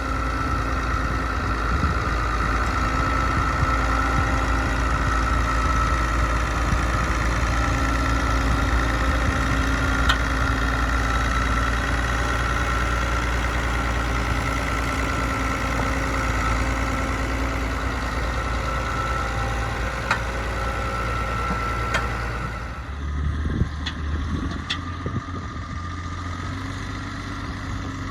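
Leyland 2100 tractor's diesel engine running steadily, with a constant whine over a low rumble. About 23 seconds in, the whine fades and a deeper, rougher rumble with a few clicks takes over.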